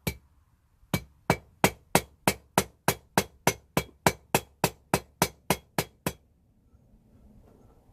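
Hand hammer striking hot rebar being forged into blacksmith's tongs: a single blow, then a steady run of about eighteen sharp ringing blows, about three a second, that stops about six seconds in.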